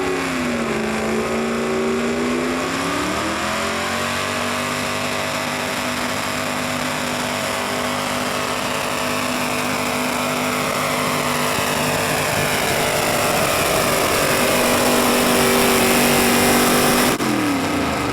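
Pulling vehicle's engine at full throttle through a pull: revs climb about three seconds in, hold high while it grows louder, then the throttle is cut about seventeen seconds in and the revs fall away.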